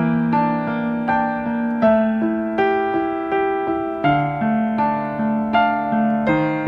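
Background music played on a piano or electric piano: a slow, gentle melody of single notes struck about twice a second over sustained chords, each note fading after it is struck.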